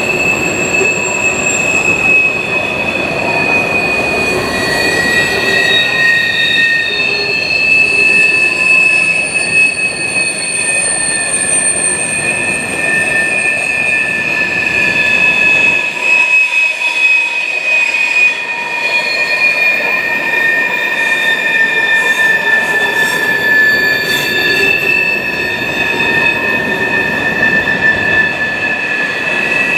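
Freight train cars rolling past with their wheels squealing in several steady, high-pitched tones over the continuous rumble of the wheels on the rails. The low rumble thins out briefly a little past halfway, while the squeal carries on.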